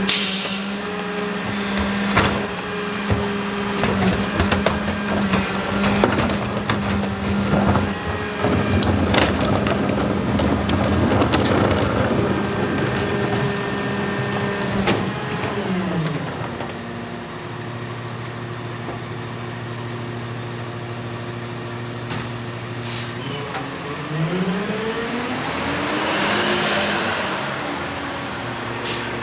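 Rear-loader garbage truck's diesel engine running at raised revs with many sharp clanks and bangs, then the revs fall away about halfway through to a steady idle, and the engine revs up again near the end.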